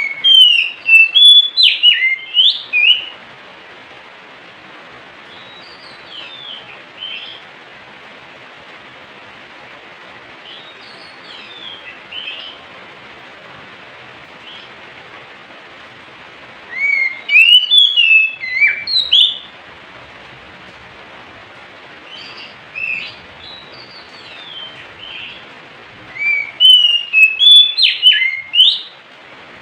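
Oriental magpie-robin singing: three loud bursts of quick, sliding whistled notes, one at the start, one past the middle and one near the end, with softer phrases between them over a steady hiss.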